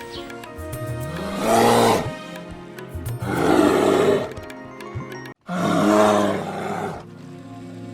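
Three loud calls from a large animal, each under a second to about a second long and coming roughly two seconds apart, over steady background music.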